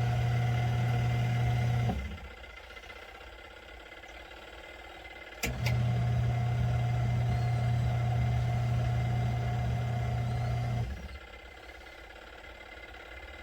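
Motor of a ZenStyle compact twin-tub washer humming steadily during washing. It stops about two seconds in, restarts with a click a few seconds later, runs for about five seconds and stops again: the run-and-pause rhythm of the wash cycle.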